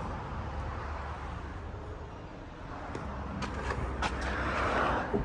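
Outdoor background noise: a steady low hum under a faint hiss, with a few light clicks and a slight swell near the end.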